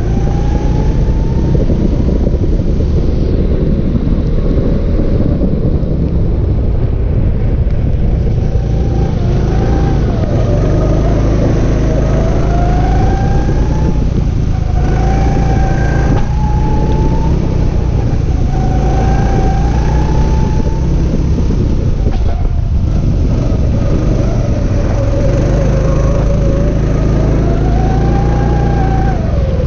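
Go-kart engine heard from on board, its pitch repeatedly rising and falling as the throttle opens and closes through the corners of a lap, under a heavy low rumble. There are brief drops where the driver lifts off about halfway in and again about three quarters of the way through.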